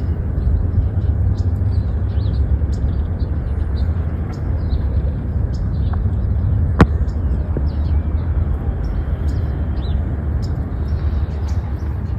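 Wind buffeting the microphone in a steady low rumble, with small birds chirping over it again and again. A single sharp click sounds about seven seconds in.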